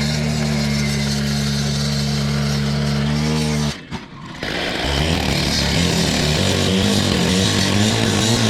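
Two-stroke Quickie cut-off saw running at a steady high speed. It cuts out suddenly a little over halfway through. It then runs again with a wavering engine note and a gritty hiss, typical of the blade biting into blacktop.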